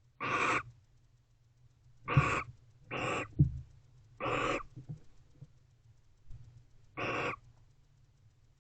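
Barn owls in a nest box giving five short hissing calls, each about half a second long, spaced unevenly. Two soft knocks come during the middle calls, about two and three and a half seconds in.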